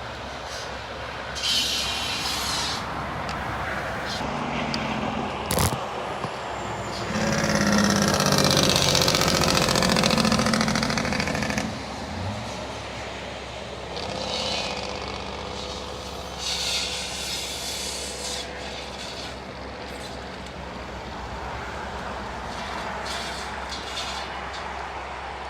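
Heavy engine-driven tree-work equipment running steadily. It grows louder and harsher for several seconds, from about seven seconds in, and there is a single sharp knock a little before that.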